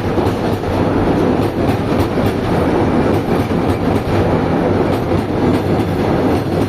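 Container goods train's wagons rolling past, a loud steady running noise with wheels clacking over the rail joints.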